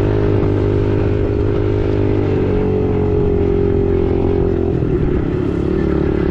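Four-stroke single-cylinder dirt bike engine running close to the microphone at a steady, held speed while riding, with wind noise on the microphone.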